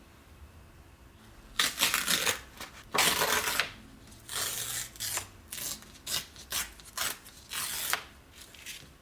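A series of about ten dry scratching, rustling strokes starting about a second and a half in, the longest and loudest near the start, then shorter, quicker ones fading toward the end.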